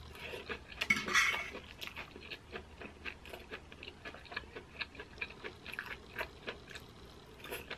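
Close-up chewing of a mouthful of corn cheese (sweet corn kernels under melted mozzarella): many small, quick mouth clicks, with one louder noisy moment about a second in.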